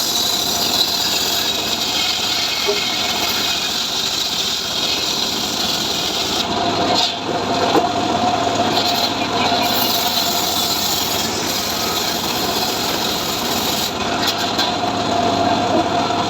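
Homemade engine-driven log sawmill (gergaji srekel) running steadily while it cuts mahogany, a continuous mechanical din with a held whine over it.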